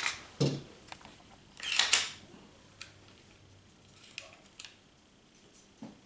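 Smith & Wesson SD40 pistol being cleared by hand: sharp metallic clicks, then a sliding rack of the slide ending in a snap about two seconds in, followed by a few lighter clicks.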